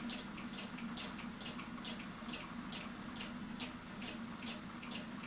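Movement of a 1967 New England cuckoo clock ticking steadily, about two to three even ticks a second, over a low steady hum.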